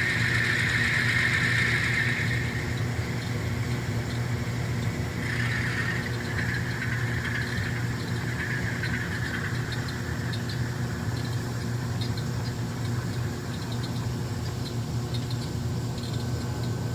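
Sound-equipped N scale model Alco diesel locomotives running, their recorded engine sound a steady low drone with a higher whine that comes and goes.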